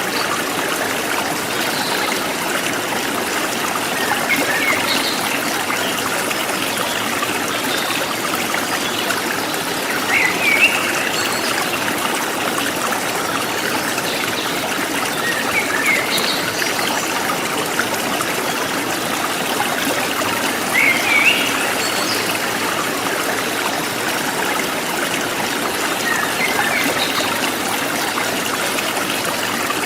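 Forest stream flowing steadily, with brief bird chirps every few seconds.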